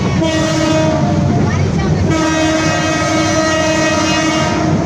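Train horn sounding two long blasts, the second longer than the first, over the steady rumble of the moving train.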